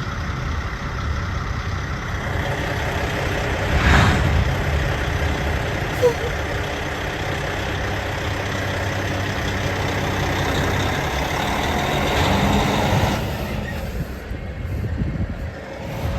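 Heavy diesel engines running with a steady low rumble, swelling loudly about four seconds in, with a sharp click near six seconds; the rumble eases off after about thirteen seconds.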